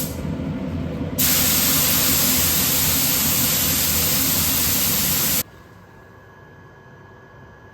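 Paint spray gun spraying acrylic 2K paint, a loud, steady hiss. It starts a little over a second in, runs about four seconds and cuts off suddenly, leaving a faint hum.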